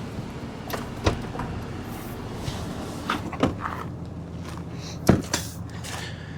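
A steady low mechanical hum with several sharp knocks and clunks over it, the loudest about five seconds in.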